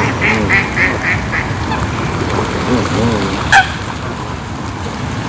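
Waterfowl calling on a lake: a quick run of about five calls in the first second and a half, then one short, louder call falling in pitch about three and a half seconds in, over a steady hiss of rain.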